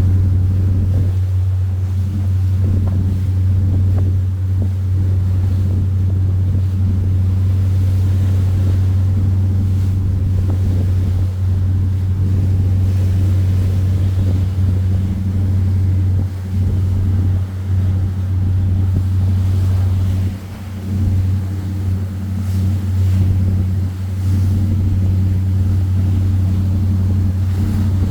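Boat engine running at a steady low drone, with wind on the microphone; the sound dips briefly a few times past the middle.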